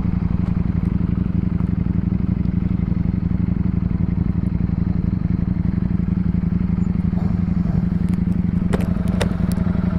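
Ducati Streetfighter V4's engine running at a steady pace while riding, a constant drone with no revving up or down. A few sharp clicks come near the end.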